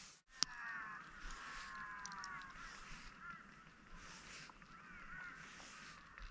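Faint chorus of wildlife calls: many overlapping falling calls, repeated on and off. A sharp click sounds just after the start.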